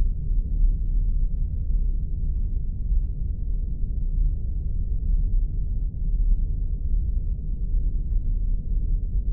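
Spaceship ambience sound effect: a steady, deep engine rumble with nothing in the higher range.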